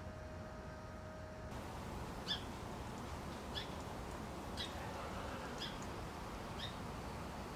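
A small bird giving a short, high chip call over and over, about once a second, over a steady hiss. The calls start about a second and a half in.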